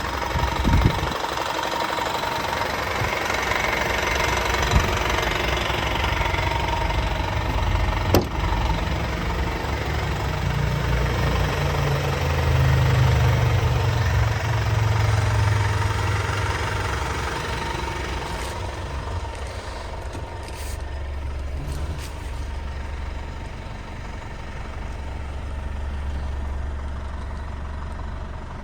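Renault D 10.210 truck's 5.1-litre four-cylinder diesel engine running at idle. It grows louder and a little higher for a few seconds near the middle, then settles back to a low, steady idle. Three sharp knocks sound in the first eight seconds.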